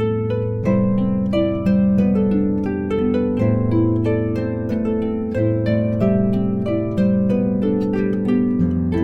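Instrumental harp music: a plucked melody with chords and low bass notes, an instrumental arrangement of a pop song.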